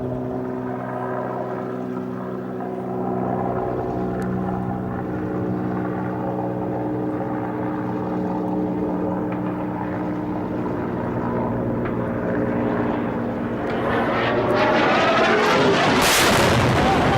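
Aircraft engine droning steadily overhead. Over the last few seconds it swells into a loud rushing roar.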